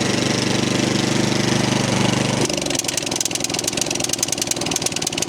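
Single-cylinder Powermore 208cc engine of an MTD snowblower running while warming up after a carburetor repair. About halfway in its steady note turns rough and uneven for a few seconds, with a quick run of ticks, before settling again.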